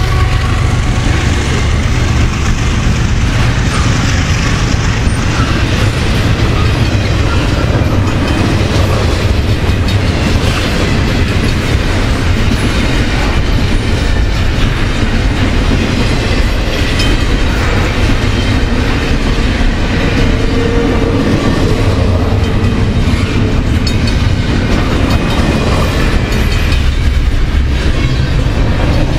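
Loaded double-stack intermodal well cars of a long freight train rolling past close by: a steady, loud noise of steel wheels on the rails.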